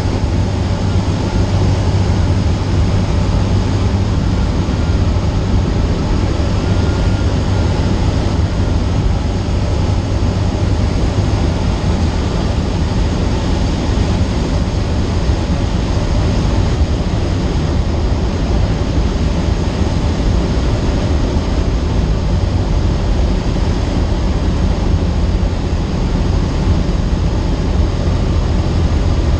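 Cessna 152's four-cylinder Lycoming engine and propeller running steadily, a loud, even drone heard from inside the cabin.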